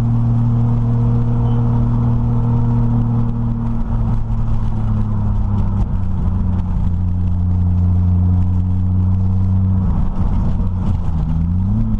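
Turbocharged Toyota 1JZ straight-six heard from inside the car's cabin while driving. It runs at a steady cruise, drops in pitch about four seconds in, and rises again near the end as it revs up.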